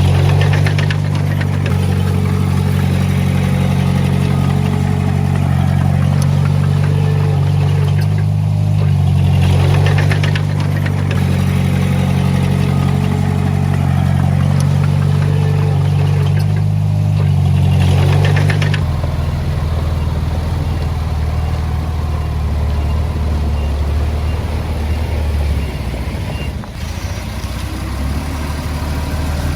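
Heavy-equipment diesel engine running hard, with a short burst of clatter about every eight seconds. About two-thirds of the way through, its note drops and it settles to a lower, steadier running.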